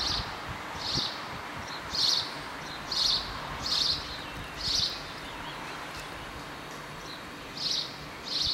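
A bird calling repeatedly in short, raspy high chirps, about one a second, with a pause of about three seconds past the middle, over a steady background hiss.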